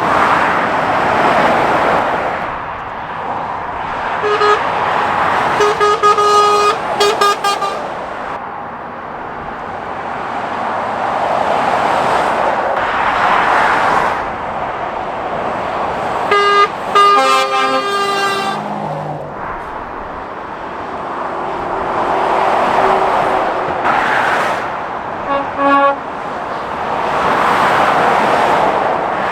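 Traffic passing on a fast dual carriageway: lorries and cars go by one after another in swells of tyre and engine noise. A vehicle horn sounds in groups of short toots three times, near the start, about halfway and near the end.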